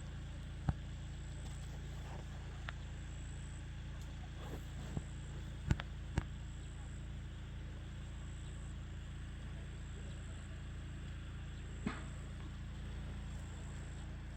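A steady low rumble, with a handful of sharp clicks and knocks scattered through it.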